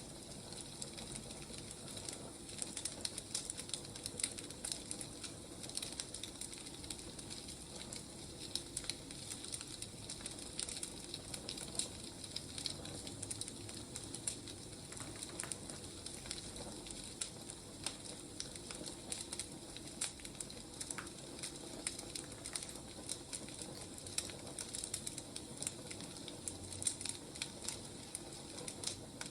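Wood fire crackling steadily, with a constant soft hiss and many small sharp pops.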